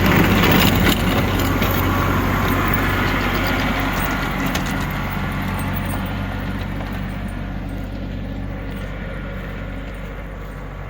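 New Holland tractor engine running steadily under a crackling, crunching noise of snow being pushed, which is loudest about a second in and then fades gradually as the tractor moves away.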